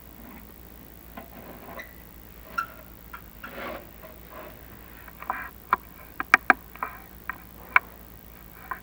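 Chimney inspection camera and its cable tapping and scraping against the flue tiles as it is fed down the flue. The clicks are irregular, sparse at first, then a close run of louder ones past the middle.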